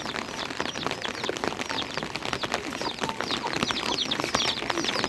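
Rain pattering steadily, with many short, high chirps falling in pitch from small birds, coming thicker toward the end.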